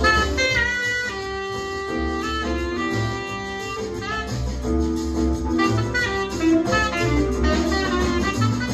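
Jazz recording: a saxophone plays a melody of held notes, scooping into some of them, over guitar and a walking bass.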